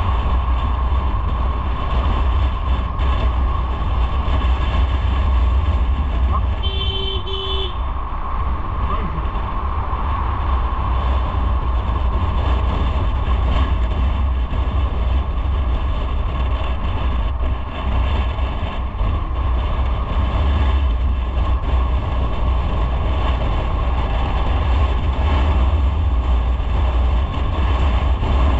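Motorcycle riding on the road, with a steady low rumble of engine, wind and road noise. A vehicle horn sounds once, briefly, about seven seconds in.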